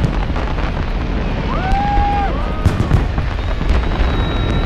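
Large fireworks display: a rapid run of bangs over a constant low rumble, with one long held whoop from a spectator about two seconds in.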